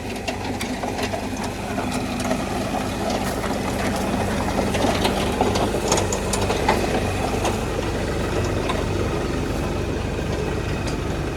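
Diesel engine of an LS compact tractor running steadily under load while grading a gravel driveway, with scattered clicks and rattles that come most often around the middle.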